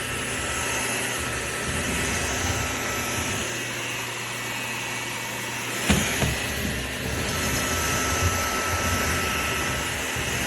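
Shark cordless stick vacuum running steadily with a thin high motor whine. A sharp knock comes about six seconds in.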